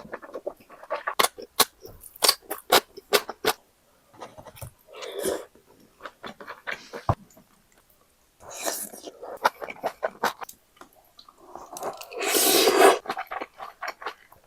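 Close-up eating of malatang: wet chewing and crunching with many sharp clicks, then a longer, louder rush of noise about twelve seconds in.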